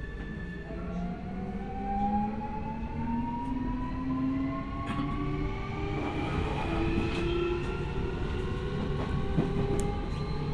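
Keio 1000 series electric train heard from inside the car: the VVVF inverter and traction motors whine in several tones that climb slowly in pitch as the train accelerates, over a steady rumble of wheels on rail.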